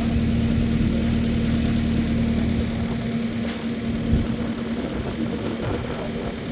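An engine idling steadily with a constant hum. Its low rumble eases off about halfway through, and a single knock sounds about four seconds in.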